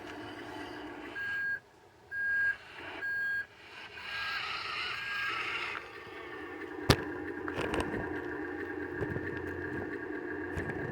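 Vehicle reverse alarm beeping five times, under a second apart, over a steadily running truck engine. A single sharp click about seven seconds in.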